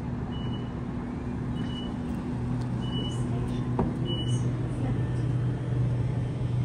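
A stopped electric suburban train hums steadily at the platform with its doors open, and the hum grows louder about halfway through. Four short high beeps sound, a little over a second apart.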